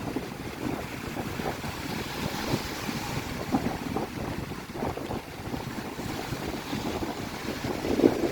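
Wind buffeting the microphone: a steady noisy rumble with irregular low gusts.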